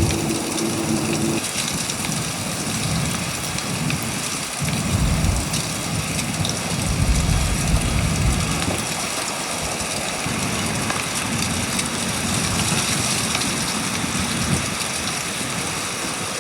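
Blizzard wind howling and gusting against a 13 ft Scamp camper, heard from inside: a steady hiss with heavy, low, rumbling gusts from about five to nine seconds in and again later on.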